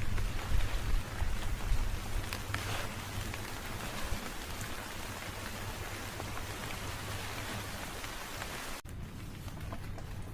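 Steady rain falling, an even hiss across the whole range, with a few heavy low thumps in the first two seconds. Near the end it breaks off abruptly and comes back quieter.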